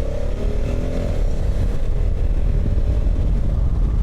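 Honda Africa Twin motorcycle engine running on the road, its pitch rising over the first second as it speeds up, under a steady low rumble.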